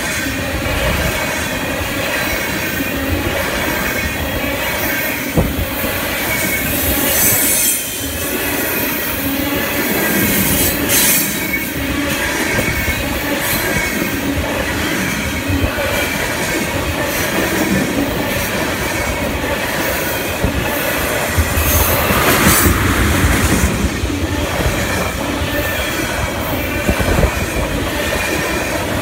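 Loaded tank cars rolling past at close range: a steady loud rumble of steel wheels on rail, with wheel squeal and some clatter over the rail joints. Brief louder flares of squeal or rattle come about 11 and 22 seconds in.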